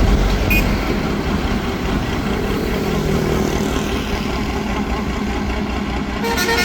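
Engine of a homemade mud suction boat running steadily at work, with a brief horn toot near the end.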